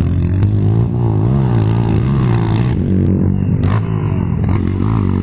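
Dirt-bike engine running close by, its revs rising and falling unevenly.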